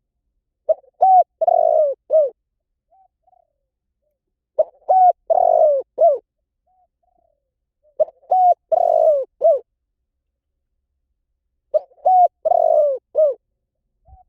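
Spotted dove cooing: four phrases about three and a half seconds apart, each made of short coos with a longer, drawn-out third note.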